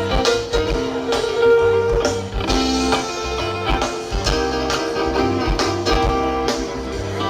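Live band playing an instrumental passage: guitar over a bass line and steady drum hits.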